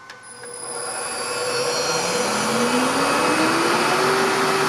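An induction motor on a test bench spinning up under frequency control, driving a small DC generator, after a click at the start. Its whine rises steadily in pitch and levels off about four seconds in, as the generator reaches speed.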